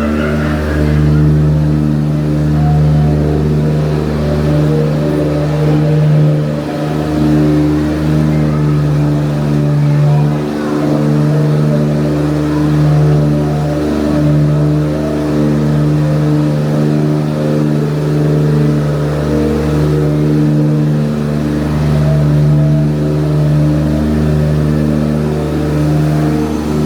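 Jungle Cruise boat's engine running steadily, a loud low drone that swells and eases slightly every few seconds.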